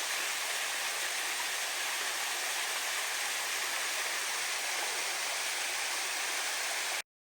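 Steady rush of a waterfall, an even noise without pitch that cuts off suddenly near the end.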